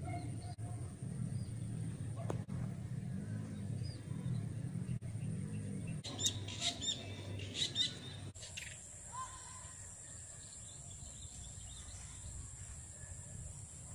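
Birds calling in short, sharp chirps, loudest in a cluster about six to eight seconds in, over a low rumble that rises and falls. The rumble stops abruptly a little after eight seconds, leaving a steady high insect-like trill and an occasional single chirp.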